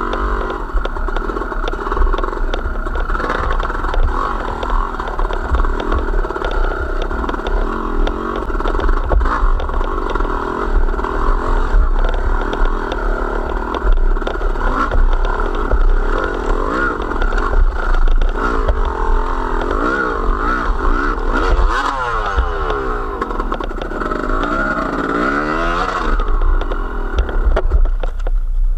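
Motorcycle engine running under way, its revs rising and falling repeatedly in the second half, over a constant low rumble with rattles and clatter.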